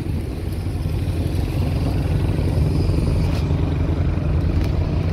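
Honda CB1300's inline-four engine running steadily at low road speed, a deep rumble, with two brief clicks in the second half.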